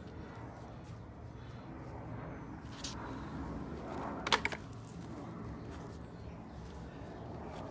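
Soil being scraped and pushed back over fertilizer in a shallow trench around a tree, over a steady low rumble, with a quick cluster of sharp scrapes or knocks about four seconds in.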